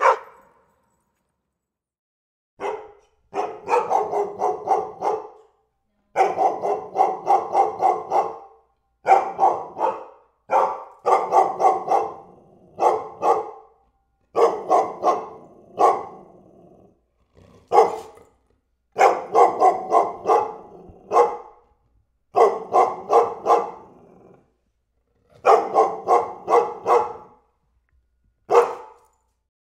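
A dog barking in rapid runs of several barks each, about a dozen runs in all, separated by pauses of roughly a second.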